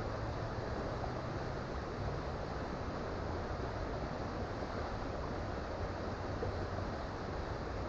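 A creek flowing: a steady, even rushing of water with a low rumble underneath.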